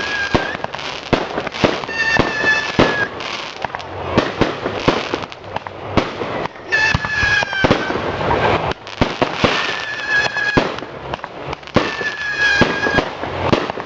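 Fireworks going off: a dense run of sharp cracks and pops. A whistling tone of about a second, slightly falling, recurs four times.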